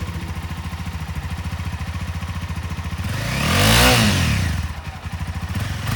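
2016 Honda CBR300R's single-cylinder, fuel-injected, liquid-cooled engine idling steadily, then revved once about three seconds in, the pitch rising and falling back to idle.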